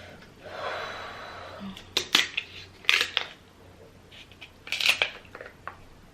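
Spiny king crab leg shell being cracked open. A soft scraping rustle comes first, then sharp shell cracks in pairs, about a second apart, near the middle and toward the end.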